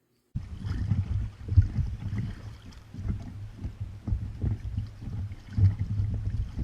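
Wind buffeting the microphone outdoors: a low, uneven rumble with irregular stronger gusts, starting abruptly just after the start.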